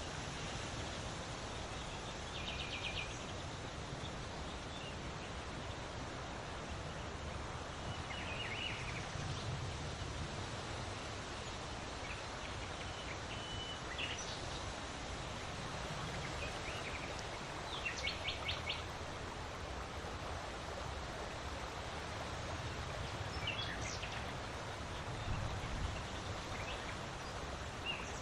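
Steady wind blowing, an even hiss that swells and eases in gusts, with short bird chirps and quick trills breaking in every few seconds.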